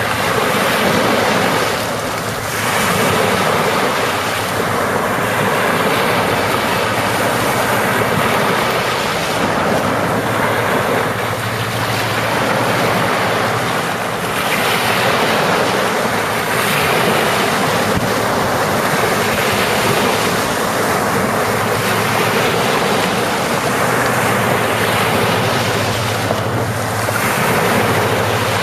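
Sea waves breaking and washing onto the shore: a continuous rush that swells every few seconds as each wave comes in.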